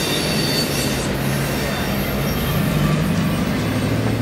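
Double-stack container well cars of a freight train rolling past close by: a steady rumble of steel wheels on rail.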